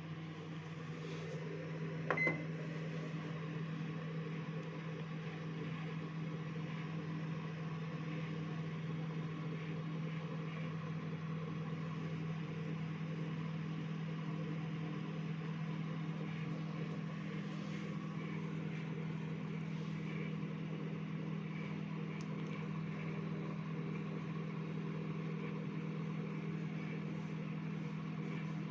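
Godrej microwave oven running with a steady low hum, after a short keypad beep about two seconds in.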